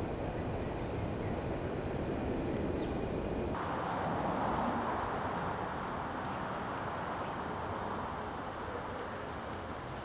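Steady outdoor background noise with a few faint, short, high bird chirps, each falling in pitch, spread through the second half.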